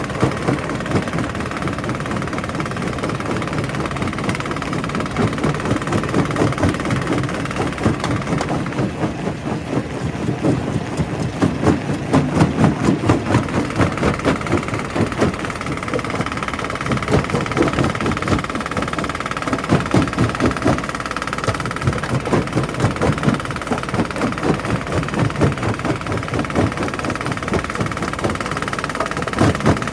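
Primary rock crusher running, a steady mechanical rumble broken by dense, irregular knocks of stone being crushed. A steady whine joins about halfway through.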